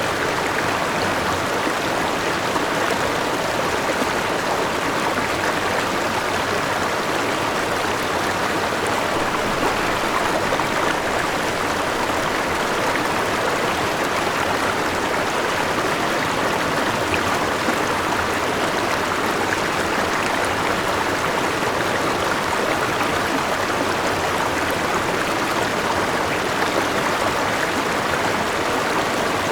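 A forest river rushing steadily over rocks, with a small waterfall: a continuous, even wash of flowing water.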